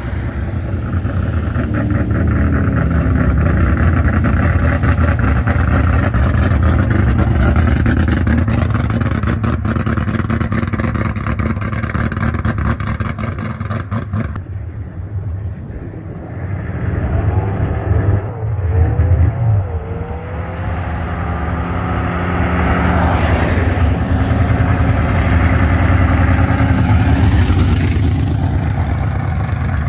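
Drag race cars' engines running loud as the cars roll past close by at low speed. Past the halfway point the engine pitch rises and falls a few times as the throttle is blipped, and another car rumbles up alongside near the end.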